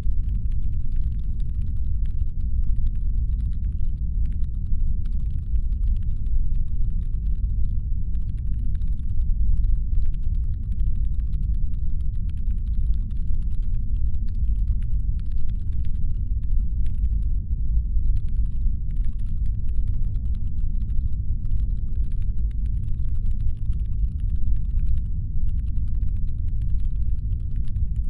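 Deep, steady brown-noise rumble made to stand in for a spaceship's engine hum, with faint, rapid, irregular clicking layered over it.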